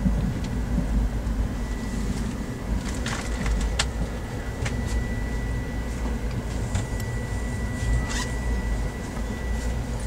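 Inside a moving passenger train coach: the steady low rumble of the wheels on the track, with a few sharp clicks and rattles and a thin steady high tone running through it.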